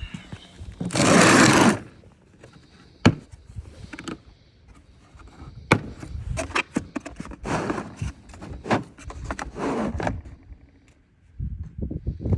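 Equipment being handled during car work: one loud scrape about a second in, then sharp metallic clicks and a run of shorter scrapes and knocks.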